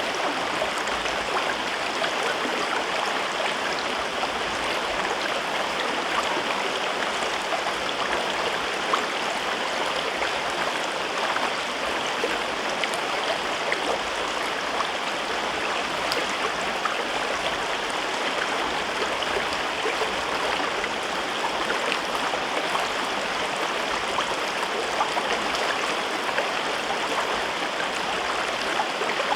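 A gorge river flowing steadily: an even rush of water with small splashes flickering through it.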